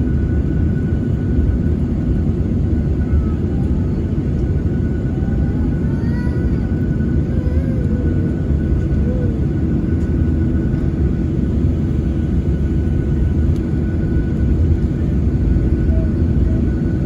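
Cabin noise inside a Boeing 737-900ER airliner: a steady low rumble from its CFM56 turbofan engines and airframe, with a faint constant whine above it.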